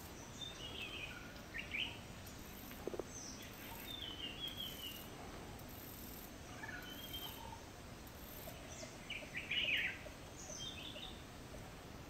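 Several wild forest birds chirping and calling in short, scattered chirps and trills, the loudest cluster about nine and a half seconds in, over a steady background hiss.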